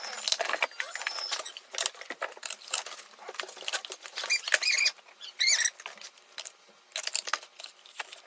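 Rapid rustling, clicking and scraping of food storage containers and their plastic lids being handled, with a few short high squeaks between about four and a half and six seconds in.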